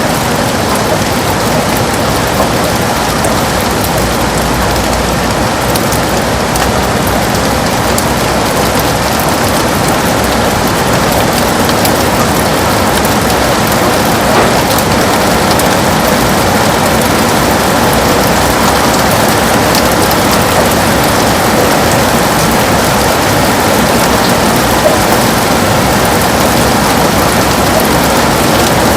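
Heavy rain falling steadily on a window, a dense, even hiss of drops with no letup.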